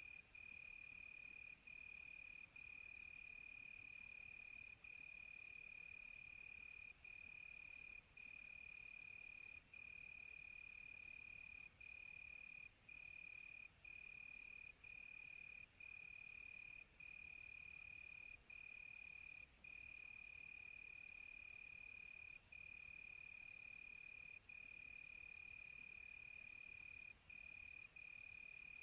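Faint cricket chorus at night: one continuous high trill with brief breaks every second or two, over a fainter, higher insect hiss.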